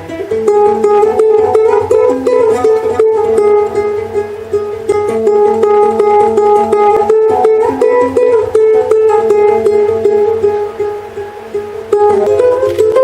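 Accordion music: a melody of held, sustained notes over steady low bass tones.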